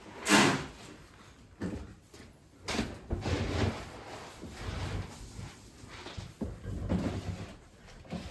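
A series of knocks and clunks like a door or lid being handled, the loudest just after the start and another near three seconds in, with rustling between.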